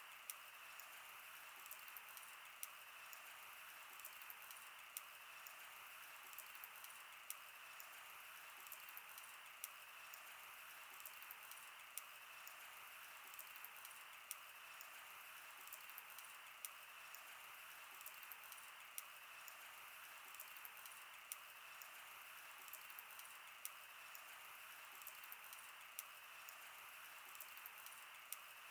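Wood campfire burning: a soft, steady hiss with frequent small, irregular crackles and pops.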